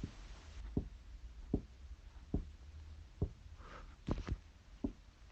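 A slow series of dull, muffled thumps, about one every 0.8 seconds with a quick double near the end, over a steady low hum.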